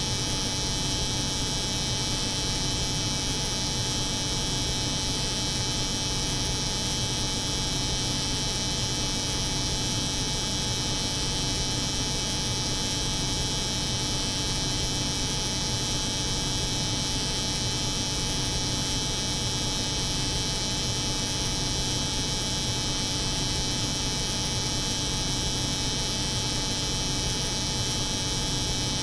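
Steady, unchanging layered drone: the hum of a cold room's refrigeration machinery mixed with the buzz of an electric hair clipper running continuously.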